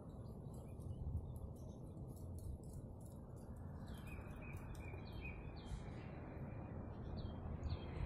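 A small bird gives a series of short, high chirps in the second half, over a steady low rumble of outdoor noise.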